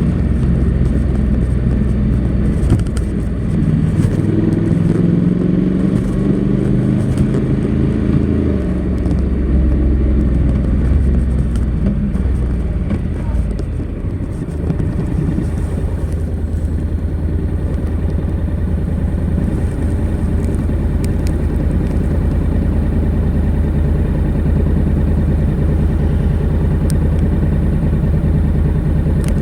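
Honda NC700X's 670 cc parallel-twin engine running through its stock exhaust, its pitch rising and falling under changing throttle for the first half, then settling to a steady low, even pulse for the rest.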